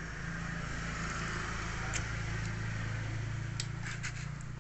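Refrigerator compressor running with a steady low hum, with a few faint clicks in the second half.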